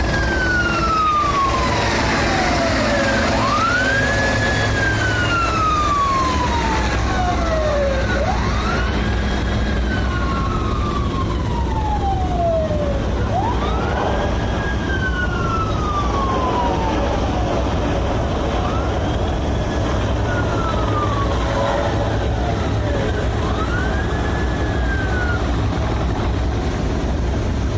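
A siren wailing in slow cycles, each rising quickly and then falling away over about four seconds, five times over, the last one weaker and stopping a couple of seconds before the end. A steady low rumble runs underneath.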